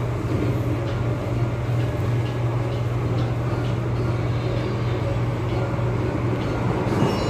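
Interior of an MTR East Rail Line MLR electric multiple unit running along the line: steady train running noise with a strong low hum. A faint high tone comes in near the end.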